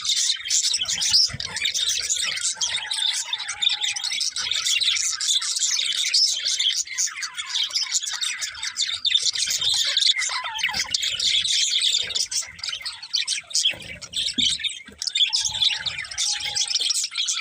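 Several budgerigars chirping and chattering at once in a continuous, dense stream of high chirps, with an occasional squawk.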